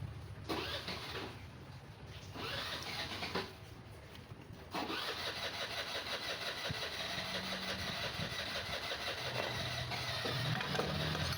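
Honda Activa BS6 scooter engine: two short bursts, then it starts and runs steadily from about five seconds in.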